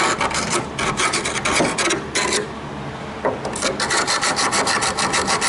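A hand tool scrubbing rapidly back and forth on the tailgate's sheet steel, about eight strokes a second. The strokes come in two runs with a pause of about a second after the first two seconds, cleaning dirt and rust off the pinch seam.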